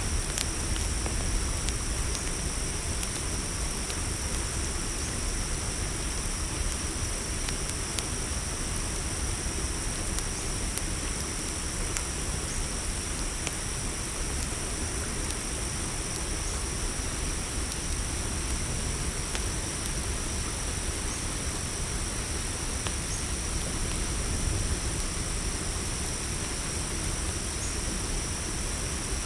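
Crickets chirring steadily in a night-time chorus, a continuous high trill over a low, even background hiss, with a few faint scattered crackles from a campfire.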